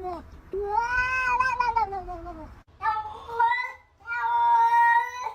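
A cat giving long, drawn-out meows, about three in a row. The first arches up and falls away, and the last is held at a steady pitch.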